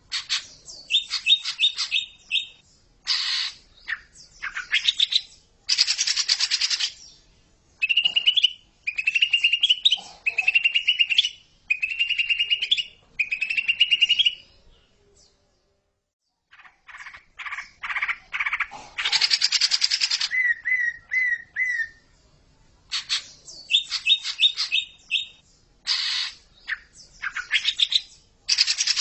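Greater green leafbird (cucak ijo) singing a fast, varied song of chirps, whistled notes and harsh rattles in repeated phrases, with a pause of about two seconds near the middle.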